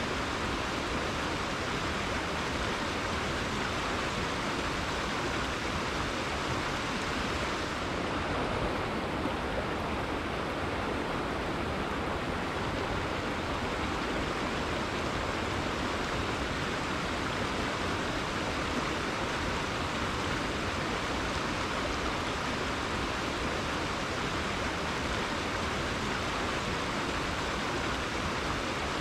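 Rainforest river flowing, a steady even rush of water with no breaks; its highest hiss dulls slightly about eight seconds in.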